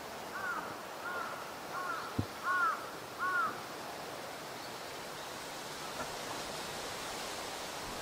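A bird calls five times in quick succession with short arched notes, over a steady hiss. A single low thump comes about two seconds in.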